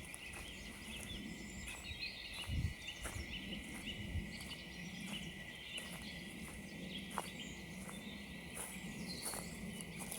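Small birds chirping and twittering over footsteps crunching on frozen ground at an even walking pace, about two steps a second.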